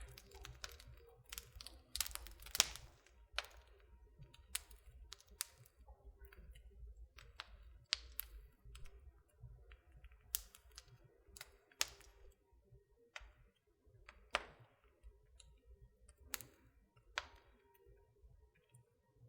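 Wood fire crackling in a fireplace: irregular sharp pops and snaps, a quick cluster about two seconds in, then scattered single pops over a faint low rumble.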